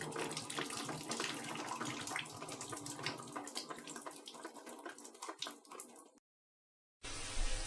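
Shower spray cut off: the steady rush stops at the start, leaving water dripping and trickling, thinning out over about six seconds. After a second of dead silence, a steady rush of water starts again near the end.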